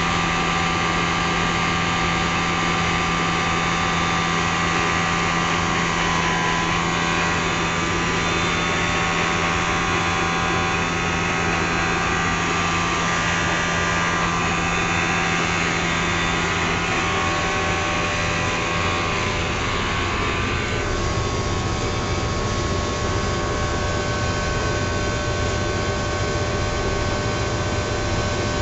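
Triangle blower motor running steadily, a hum with several constant tones under a broad airy rush. About two-thirds of the way through, the high hiss falls away and the low hum comes up, as if the blower changes speed.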